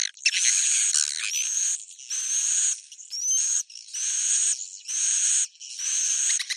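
Swiftlets giving their twittering roosting call (suara inap): about seven rapid chirring bursts, each under a second, with short gaps and rising whistled notes. This is the call played in swiftlet farming to coax the birds to stay and roost.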